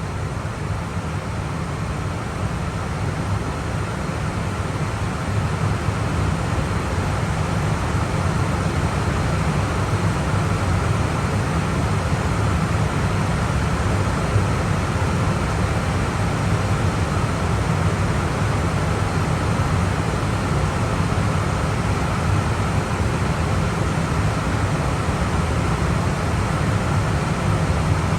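Airbus A320 flight-deck noise in flight: a steady rush of airflow with a low hum underneath, growing slightly louder over the first few seconds and then holding even.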